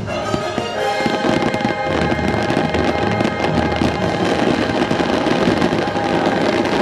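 Fireworks bursting in rapid, continuous crackling bangs over loud orchestral-style show music.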